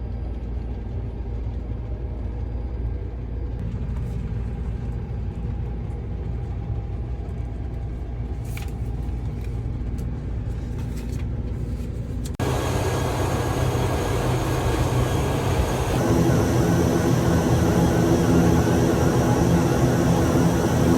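Steady low engine drone of an aircraft in flight, as heard inside the cabin. About twelve seconds in it cuts abruptly to a louder, fuller noise, with more steady tones joining at about sixteen seconds.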